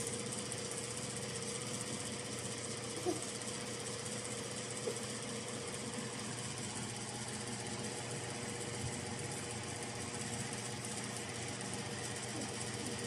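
Toyota Innova's engine idling steadily, a low, even mechanical hum. Two faint clicks come about three and five seconds in.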